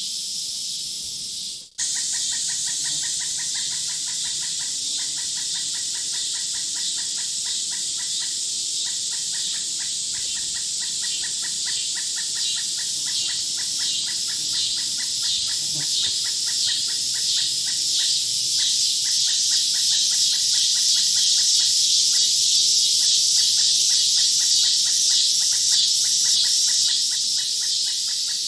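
Woodland ambience: a steady high insect chorus with a fast, evenly repeated animal call, after a brief dropout near the start. The high pulsing grows louder through the second half.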